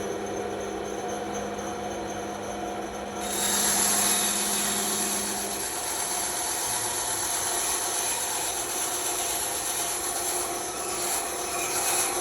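Bandsaw running with a steady hum; about three seconds in the blade starts cutting through wood, adding a rasping hiss that carries on.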